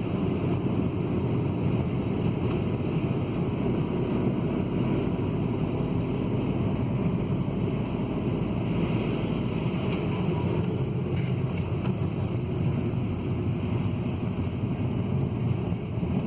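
Car driving on a snowy road: a steady low rumble of engine and tyre noise, even throughout.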